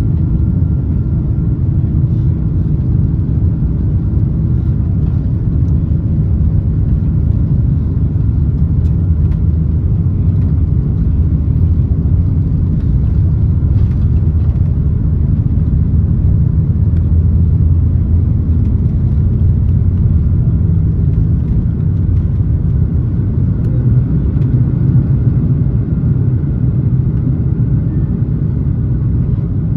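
Steady low rumble of an Airbus A330-300's cabin with the engines running, holding an even level throughout.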